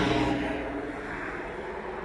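Engine noise of a passing vehicle fading away, its pitch having just dropped as it went by, leaving a low rumble.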